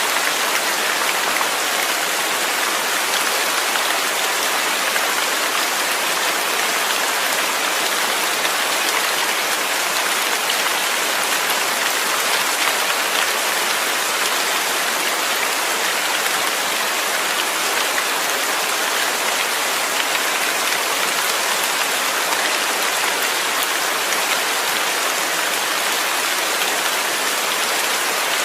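Steady, even rain, a dense hiss of many drops falling on a surface without a break.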